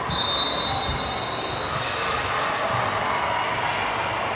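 Gym noise during an indoor volleyball match: a ball being hit and bounced on the court, with a brief high squeal right at the start over a steady background of players and spectators.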